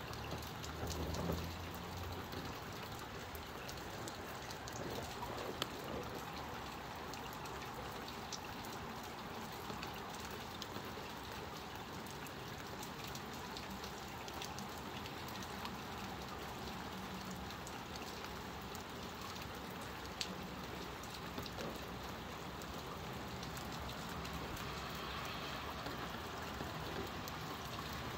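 Moderate rain shower falling steadily: an even patter of drops with scattered sharper drip clicks, and a brief low rumble about a second in.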